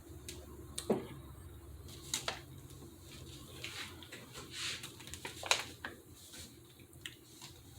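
Quiet eating and handling sounds: scattered small clicks and soft mouth sounds, with a few sharper smacks about one, two and five and a half seconds in.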